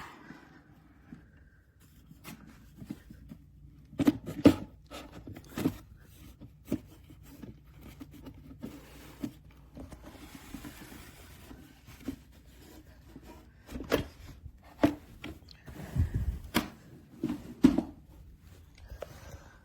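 Irregular wooden knocks and clunks as a wooden pet ramp is handled and its height adjusted downward, with several sharp loud strikes in two clusters.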